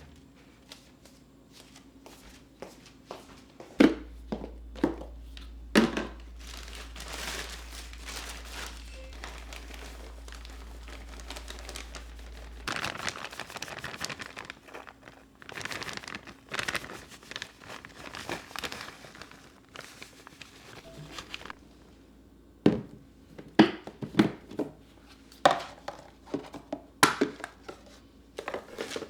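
Packaging crinkling and rustling as it is handled, with sharp knocks of kitchen items being set down, several around 4–6 seconds in and a cluster near the end.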